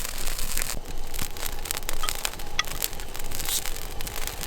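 Wood campfire crackling: a dense, irregular run of small snaps and pops over a steady hiss.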